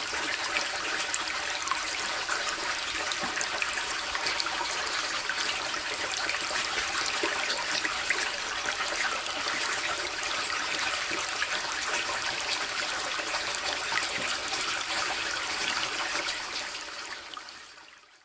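Waterfall: water falling and splashing in a steady rush, mostly hiss and splash with little deep rumble, fading out over the last two seconds.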